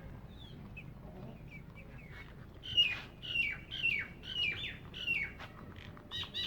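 A bird calling: a run of about six short calls, each falling in pitch, roughly two a second, then a few shorter high calls near the end.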